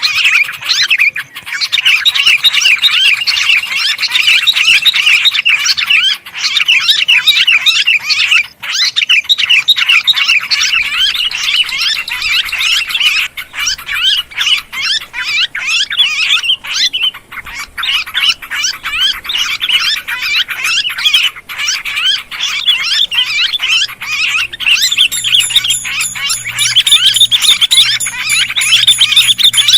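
A dense, unbroken chorus of sooty-headed bulbuls and yellow-vented bulbuls, chattering and chirping noisily: a bird-lure recording meant to draw other birds in. Near the end a high, fast-repeating trill joins in above the chatter.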